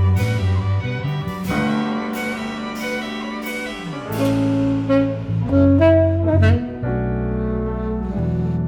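Live jazz waltz: tenor saxophone playing over piano, string quartet, double bass and drums.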